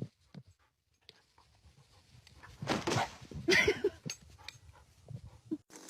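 A dog making short vocal sounds: a noisy burst near the middle, then a few quick pitched yips.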